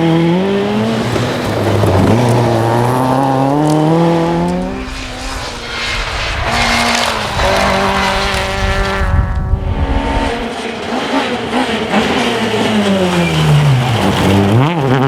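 Rally car engine revving hard and climbing through the gears, then a stretch of tyre and gravel noise with the engine held steadier. Near the end the revs fall steeply as the car slows.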